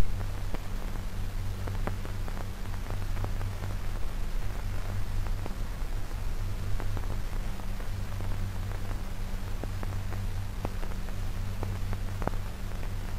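Surface noise of an old film soundtrack: a steady hiss over a low hum, with scattered crackles and clicks.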